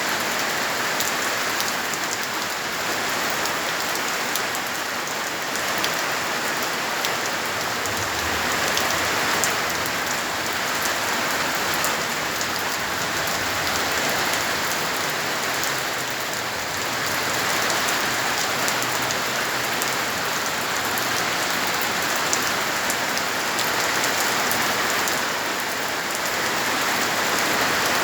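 Heavy rain pouring steadily, with many sharp drop hits on a surface.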